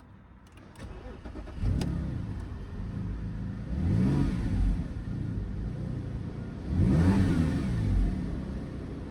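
Audi 2.4 V6 petrol engine (code BDW) starting about a second and a half in, then idling and revved twice, its pitch rising and falling each time.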